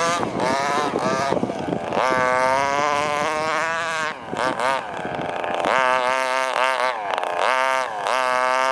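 FG model's 23cc Zenoah two-stroke gas engine revving up and down repeatedly under throttle. The pitch climbs and drops in a series of surges, coming about once a second near the end.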